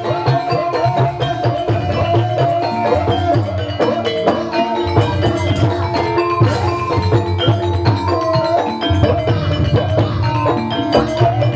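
Banyumas gamelan music accompanying an ebeg dance: a fast, busy melody of mallet-struck keyed instruments over a steady drum pattern.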